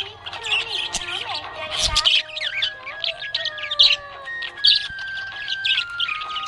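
Budgerigars chirping and chattering in quick, busy bursts, with a song playing underneath.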